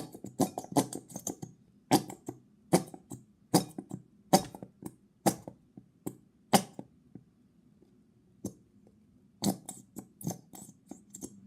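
A small 100 g squeeze bottle of white PVA glue being squeezed out into a pot, giving short sputtering squelches about once a second as glue and air are forced from the nozzle. They pause for a couple of seconds and then start again.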